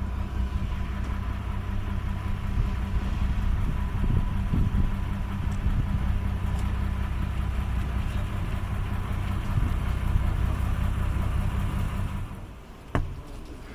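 Vehicle engine running with a steady low hum. The hum drops away about twelve seconds in, and one sharp click follows.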